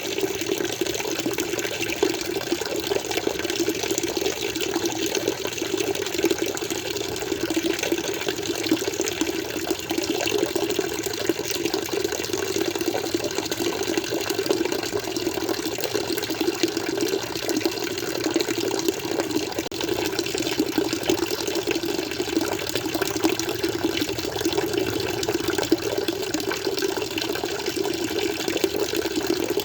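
Flowing water running steadily with a constant splashing rush and no pauses.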